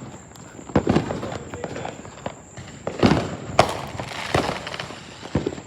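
Consumer fireworks and firecrackers going off across the neighbourhood: a string of sharp bangs at uneven intervals, each with a short echoing tail, the loudest a little past the middle.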